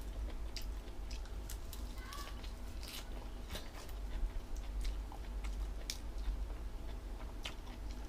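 A person chewing and biting crunchy food close to the microphone, with many sharp irregular crunches and mouth clicks over a steady low hum.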